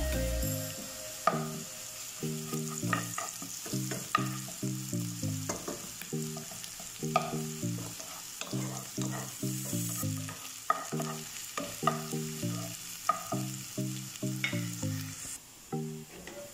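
Chopped onion, garlic and ginger sizzling in hot oil in a nonstick pan, stirred with a wooden spatula that knocks and scrapes against the pan every second or two.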